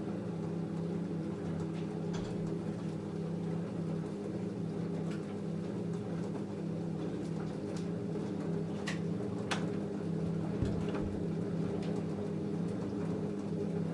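LG F10A8HDS5 front-loading washing machine running a cotton cycle: a steady hum with light clicks and taps over it, the sharpest two about nine seconds in.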